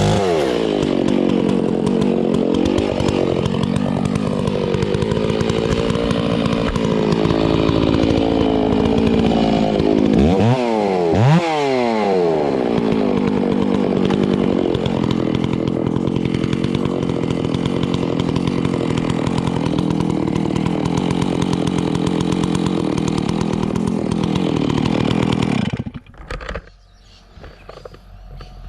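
Chainsaw running under load, cutting into a tree trunk. About eleven seconds in, the engine pitch drops and quickly rises again as the throttle is eased off and opened back up. Near the end the saw cuts off suddenly.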